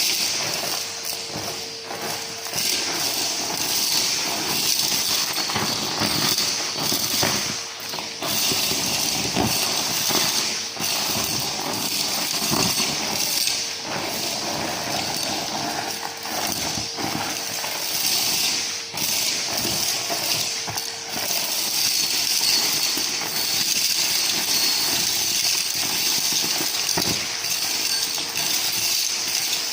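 Numatic James tub vacuum cleaner running with a steady motor whine and rushing air while it sucks up dry debris, which clinks and crackles as it rattles up the hose.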